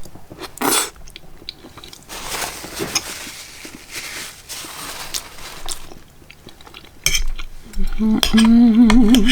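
A fork clinking and scraping against a plate while chasing field peas that keep rolling away. Near the end a wavering hummed voice sound joins in.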